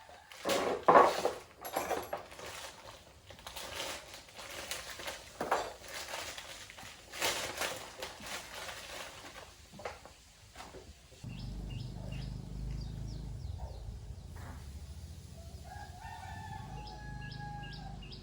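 Irregular knocks and clatter, the loudest about a second in. A low steady hum sets in suddenly about eleven seconds in, and a rooster crows near the end.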